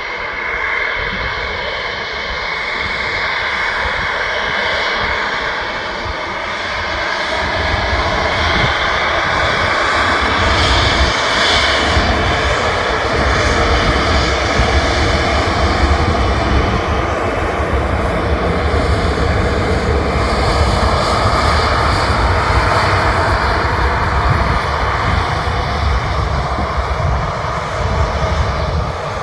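Boeing 737-800's CFM56-7B turbofan engines at takeoff thrust as the jet departs: a steady, loud jet noise, with a deep low rumble that builds about seven seconds in and stays.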